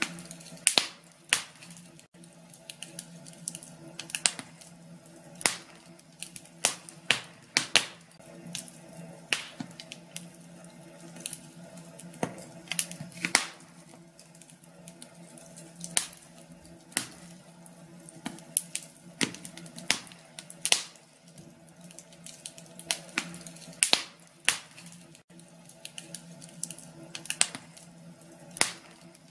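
Wood fire in a fireplace crackling, with sharp pops at irregular intervals, some in quick clusters, over a faint steady hiss and hum.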